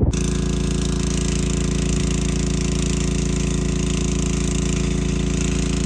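A machine drones steadily at a constant pitch, with a hiss over it. It starts suddenly and does not change.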